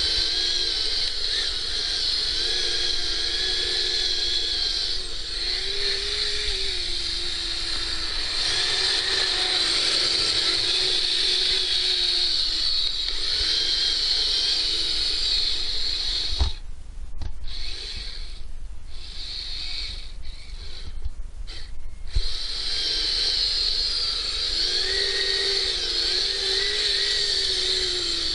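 Kyosho Blizzard RC snowcat's electric motor and gearbox whining as it drives, the pitch wavering with the throttle. About halfway through it stops for several seconds, with a few clicks and knocks, then whines on again.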